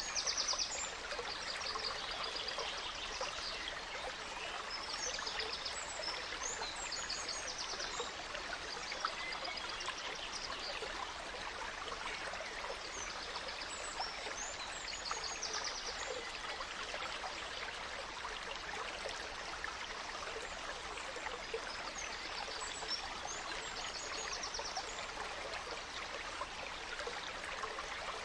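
A gentle stream flowing steadily, with forest songbirds breaking in every few seconds with short bouts of high chirps and quick trills.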